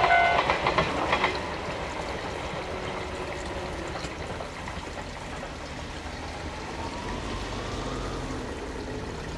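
The tail end of a passing freight train: a steady multi-tone signal cuts off just after the start, and a few wheel clacks on the rail joints follow about a second in. After that there is a steady rushing noise like flowing water, with a low hum coming in near the end.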